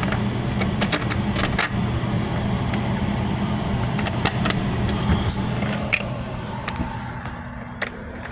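Newly repaired mobile home air conditioner running with a steady electric hum, with scattered clicks and rattles over it. The hum changes to a single steadier tone about seven seconds in.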